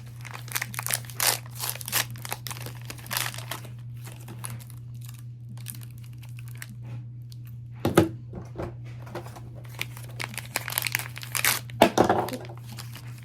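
Plastic wrapping crinkling and tearing as a small packaged Mini Brands miniature is opened by hand, with a louder knock about eight seconds in and another near the end.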